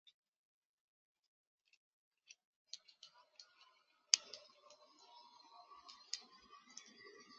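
Birds pecking at a bird feeder: a series of sharp, irregular clicks and taps that starts about three seconds in, with the loudest a little past four seconds, over a faint outdoor background.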